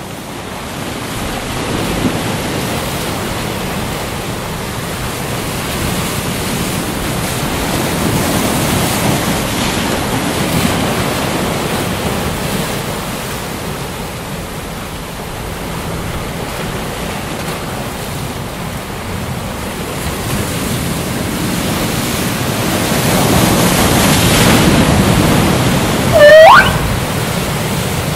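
Ocean waves washing in, a steady surf hiss that swells and ebbs slowly. Near the end comes one short, loud call that rises in pitch.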